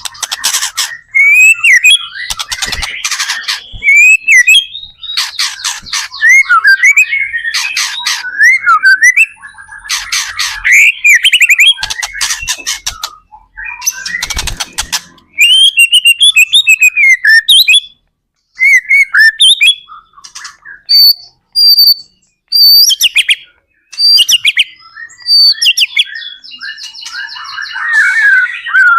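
White-rumped shama (murai batu) singing loudly in a long varied song of whistled phrases, rapid chattering trills and high notes, with brief pauses between bursts.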